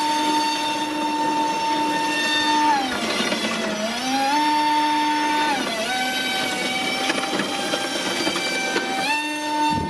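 Brushless electric motor and air propeller of a small RC airboat whining at high speed. The pitch dips around three seconds in, recovers, drops a little again at about six seconds and climbs back near the end as the throttle is eased and opened.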